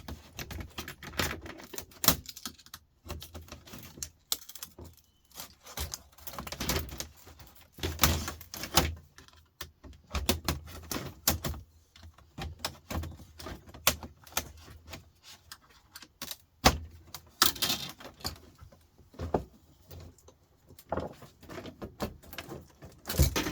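Irregular clicks, taps and clattering of plastic and metal parts being handled and pried apart while a computer monitor's screen assembly is opened up.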